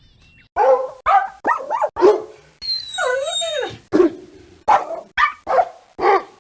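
A dog barking in a series of about nine short barks, with one longer, wavering whining call in the middle.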